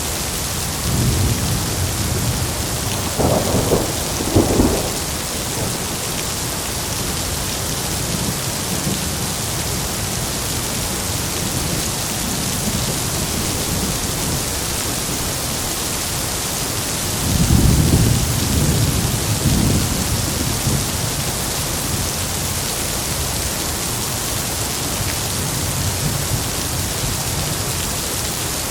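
Steady heavy rain with rolls of thunder. A rumble in the first few seconds carries two sharper cracks, and another long rumble comes a little past the middle.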